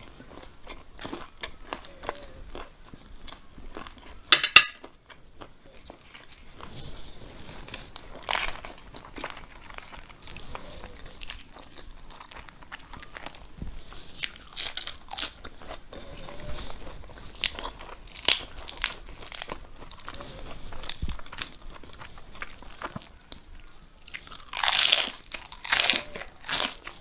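A person eating close to the microphone: crunchy bites and chewing, with many short sharp clicks. A brief, loud rattle comes about four and a half seconds in, and a louder run of crunching near the end.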